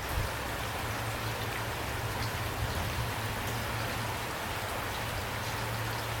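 Steady rain falling, a continuous hiss with scattered individual drops ticking through it and a constant low rumble underneath.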